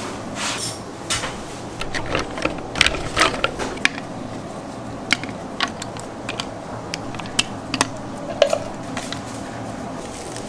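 Scattered light clicks and knocks of kitchen work, thickest in the first few seconds with one louder knock near the end, over a steady background hum.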